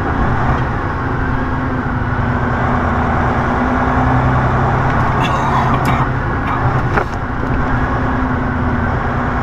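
Semi truck's diesel engine running steadily, heard from inside the cab, with a few sharp clicks about halfway through. The turbo is not boosting.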